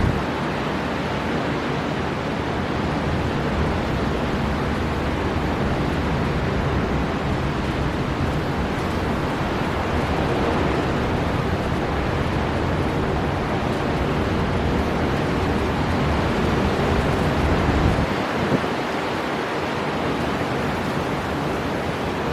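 Storm-force wind blowing steadily with sea surf beneath it, a dense even noise with a gusting low rumble of wind buffeting the microphone. The low rumble eases for a moment about eighteen seconds in, then returns.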